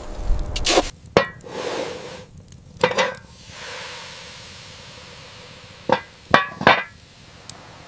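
A series of sharp knocks or strikes, coming singly or in quick pairs a second or more apart, with a cluster of three near the end.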